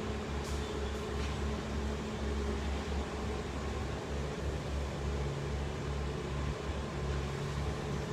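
A steady low mechanical hum of a motor or engine running evenly, with uneven low rumbling such as wind on the microphone.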